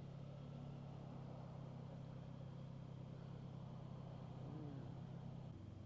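Honda Magna V45's V4 engine running steadily under way, a low even hum that shifts slightly about five and a half seconds in.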